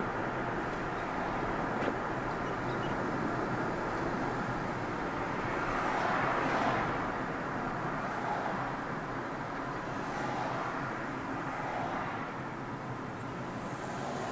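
Steady road and tyre noise from a car being driven, with a brief swell in loudness about six seconds in and smaller ones later.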